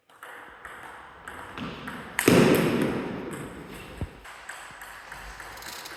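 Table tennis ball clicks and taps of play in a hall, with a loud noisy burst about two seconds in that fades over a second.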